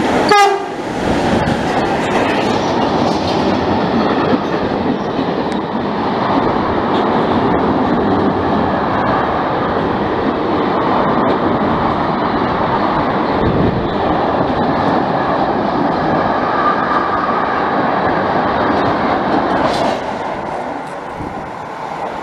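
An E.483 electric freight locomotive sounds its horn briefly as it comes in. Its train of empty car-carrier wagons then rolls past close by with a steady rumble and wheel clatter, which drops off sharply near the end.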